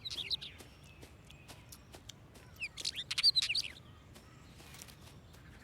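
Songbird chirping: two short bursts of quick, high twitters, one at the start and another about three seconds in.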